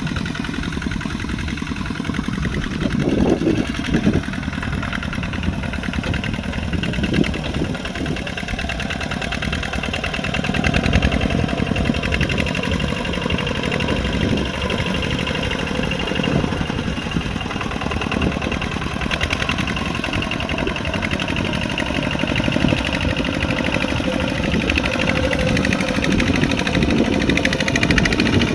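Kubota RT140 Plus single-cylinder diesel engine of a two-wheel walking tractor running steadily while plowing mud, its firing beating in a rapid even pulse.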